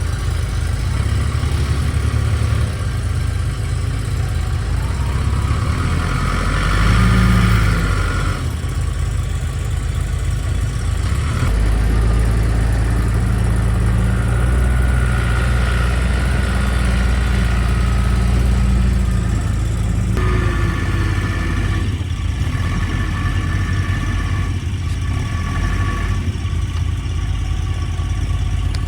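Engine of a TimberKing portable sawmill running steadily, its note changing several times as it takes on and sheds load, with a brief louder swell about seven seconds in.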